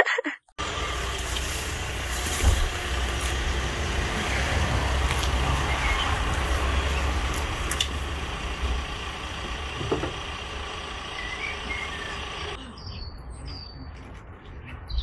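A car driving, heard from inside the cabin: a steady road-and-engine rumble. It cuts off abruptly near the end, giving way to birds chirping.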